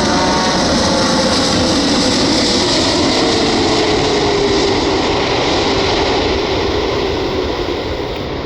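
Jet noise from a Boeing 747-8F's four GEnx-2B turbofan engines as the aircraft passes: a loud, steady rush with faint tones that glide slowly downward in pitch, easing off a little near the end.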